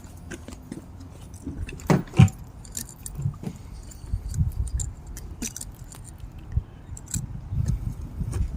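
Handling noise from a motorcycle carburetor bank being turned over in the hands: light metal clicks and rubbing, with two louder knocks about two seconds in.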